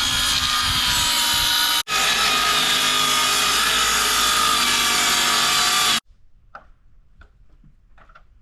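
Power saw cutting a sheet of T1-11 plywood siding, the motor running steadily under load. It breaks off briefly about two seconds in and stops abruptly about six seconds in, followed by a few faint knocks.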